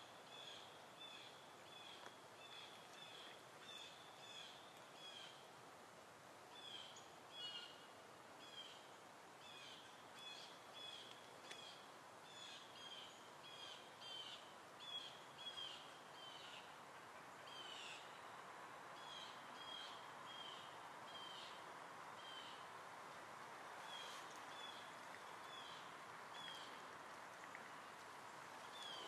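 Faint bird chirps: short high calls repeated about twice a second, thinning out in the second half, over a steady hiss.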